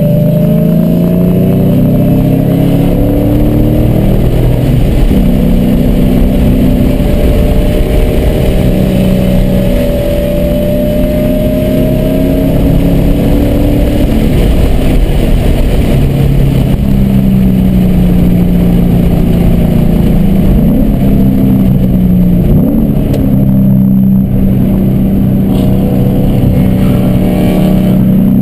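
A car's engine heard from inside the cabin on a race track, pulling hard with its pitch rising for about the first twelve seconds, then easing off as the car slows, with a few quick rises and falls in pitch later on, over steady wind and road noise.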